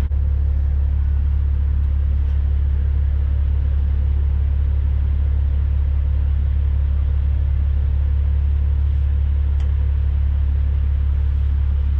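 Diesel semi-truck engine idling with a steady, unchanging low drone.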